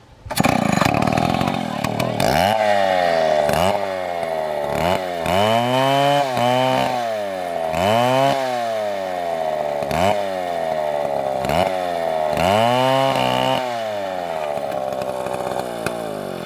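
Chainsaw engine starting up suddenly and revving up and down repeatedly, about every one to two seconds, then running more steadily near the end.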